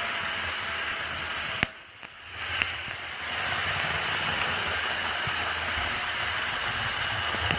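Märklin model electric locomotive running along the layout track, a steady whirr of motor and wheels. A sharp click about one and a half seconds in, the sound drops away for about half a second, then another click and the running noise returns.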